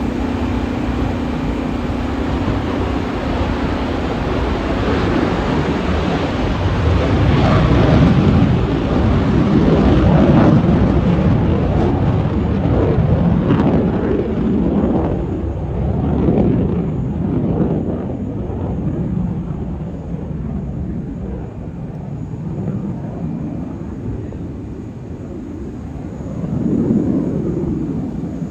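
F-15E Strike Eagle's twin jet engines at takeoff power. The roar builds about five seconds in and is loudest around eight to eleven seconds in. It then fades and grows duller as the jet moves away.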